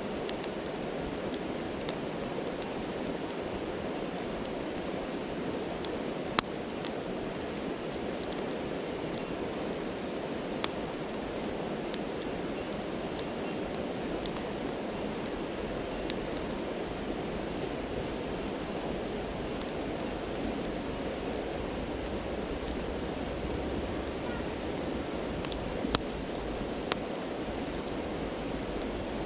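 Stream rushing steadily, with the sparse crackles and pops of a campfire over it; a sharper pop comes about six seconds in, and two more near the end.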